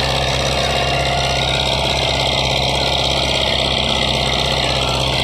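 Tractor diesel engine running at a steady speed, with no revving.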